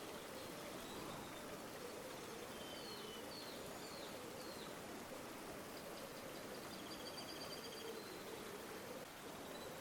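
River water flowing steadily, with small birds chirping over it: a few short chirps a few seconds in, then a rapid trilling call in the second half.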